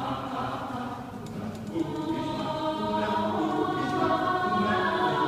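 A cappella choir singing sustained chords in several voice parts, growing louder about two seconds in, with a few light clicks or snaps partway through.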